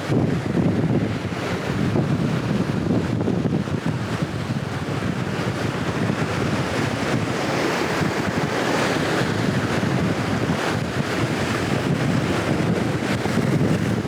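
Strong wind buffeting the microphone in a steady, heavy rumble, with the wash of sea waves breaking on the shore; a hissing swell of surf rises in the middle.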